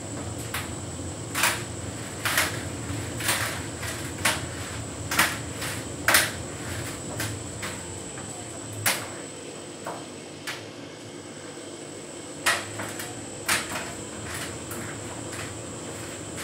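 Hotpoint heat pump tumble dryer running: a steady machine hum, with the load tumbling in the turning drum and knocking against it irregularly, roughly once a second.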